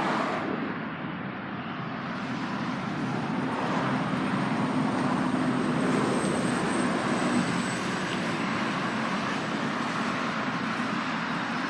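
Steady vehicle noise, a rushing rumble that builds to a peak about halfway through and then eases off.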